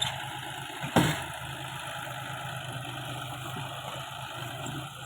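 John Deere 5045 tractor's three-cylinder diesel engine running steadily while working a round baler, with one sharp knock about a second in.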